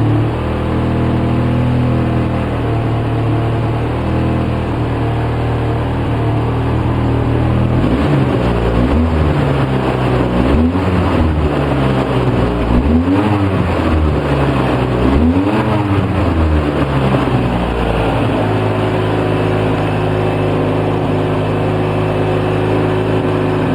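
2004 Polaris Sportsman 700 twin-cylinder engine idling rough on partial choke. From about eight seconds in, its speed rises and falls four times, then it settles back to a steady idle.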